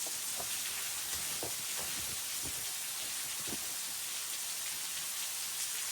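Waterfall rushing as a steady hiss, with a few soft knocks about a second apart.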